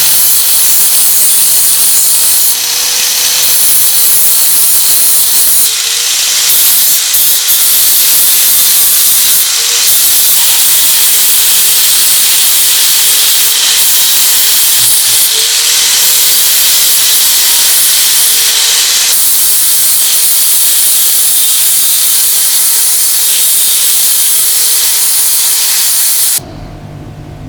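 Compressed-air tool hissing steadily and loudly, with several brief dips in the flow. It cuts off about a second before the end, leaving a quieter low hum.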